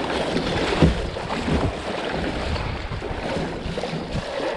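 Kayak on a fast, high river: rushing water and paddle splashes around the boat, with wind buffeting the microphone as low irregular thumps.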